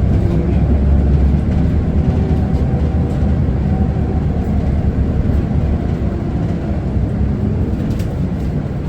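Isuzu Erga city bus running on the road, heard from inside: a steady low diesel engine rumble mixed with road noise.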